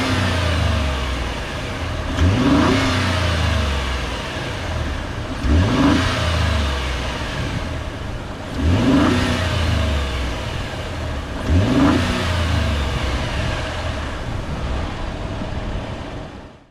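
2019 Ford F-150's 3.5L EcoBoost twin-turbo V6 idling and blipped four times, each rev rising quickly and dropping back to idle about every three seconds, then settling at idle until it cuts off at the end.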